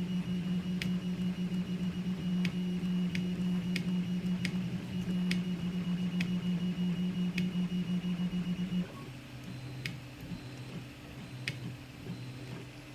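Zonestar P802M 3D printer's stepper motors humming steadily while printing, with scattered light clicks. About nine seconds in, the hum drops to a lower pitch and gets quieter as the motion changes.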